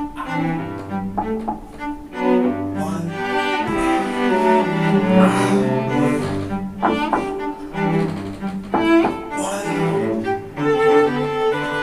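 Music from a low-pitched bowed string instrument, playing a line of held notes that change every second or so.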